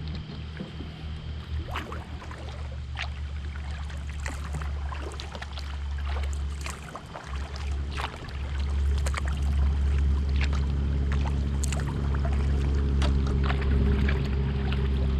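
Kayak paddling: scattered clicks and splashes of the paddle and dripping water. Under it runs a steady low hum that grows louder about halfway through.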